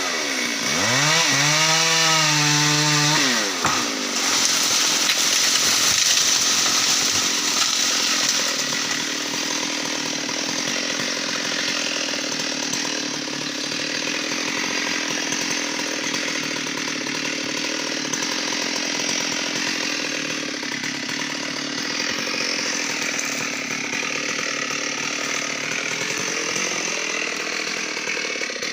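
Stihl MS 382 two-stroke chainsaw revving up and holding high for a few seconds, then running under load in a long cut through teak wood. The engine pitch climbs again near the end.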